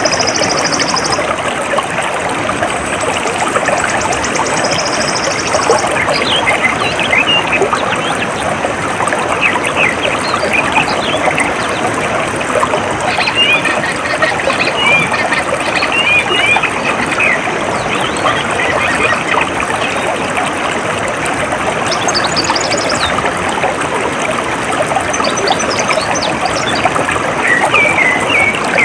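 Steady trickling, running water with small birds chirping over it, and a few short bursts of fast, high, buzzy trills.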